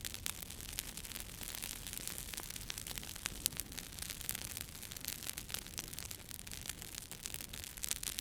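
Wood fire crackling in a fireplace: a steady hiss with frequent, irregular sharp pops and snaps, one louder snap about three and a half seconds in.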